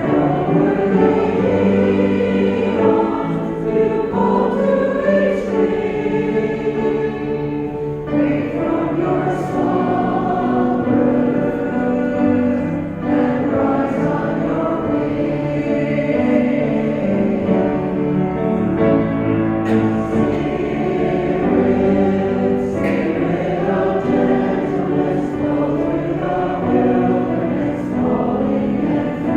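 Church congregation singing a hymn with piano accompaniment.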